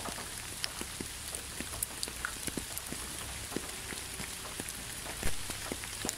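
Steady light rain: a soft hiss with many small drops ticking, and one brief louder swell about five seconds in.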